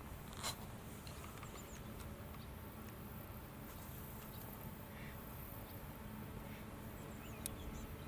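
Faint outdoor ambience: a low steady rumble and a light high hiss, with a sharp click about half a second in and another near the end.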